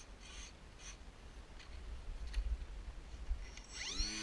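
Low rumble of wind on the microphone with faint scattered rustling and handling ticks. Near the end a person's voice calls out briefly, rising then falling in pitch.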